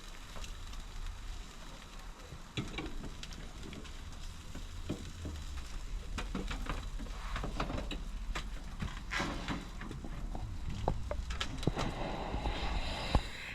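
Jerk chicken legs sizzling over a barbecue fire, with a steady hiss and many irregular crackles and pops.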